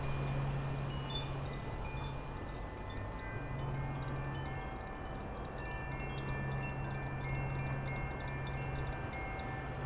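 Wind chimes ringing: many overlapping high ringing tones, struck at random, over a steady low hum.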